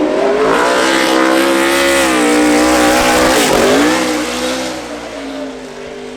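Racing car engine revving hard as the car accelerates past, its pitch climbing with a sharp dip and recovery about three and a half seconds in, then fading as it moves away.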